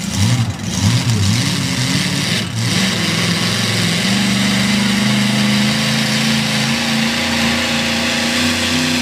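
A modified four-wheel-drive pulling truck's engine blipped up and down a few times, then held at a steady speed that creeps slowly higher.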